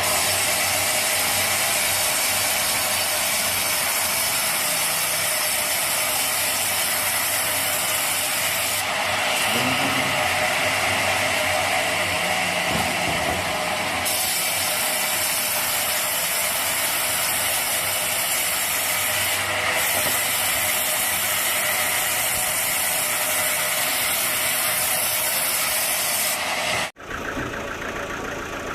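Sawmill saw cutting through a teak log, a loud steady whirring and rasping of the blade in the wood. Near the end it cuts off abruptly and a lower, steady engine idle takes its place.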